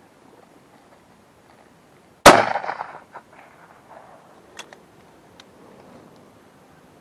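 A single shotgun shot, a sharp crack with a short fading echo, followed over the next few seconds by a few faint clicks.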